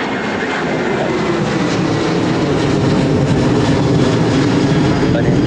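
Jet airliner's engines at takeoff power on the runway, a steady loud rumble that grows gradually louder.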